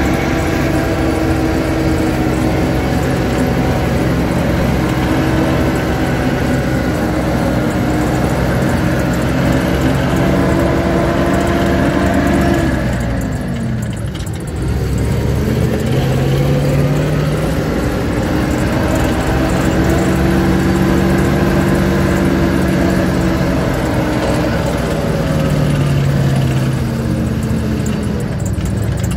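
Vehicle engine heard from inside the cab while driving, running at a steady pitch. About halfway through, its revs fall sharply and then climb again, with a smaller dip near the end.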